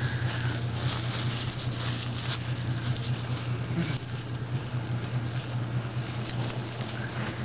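An engine running steadily with a low, even hum, with scattered small clicks and knocks over it.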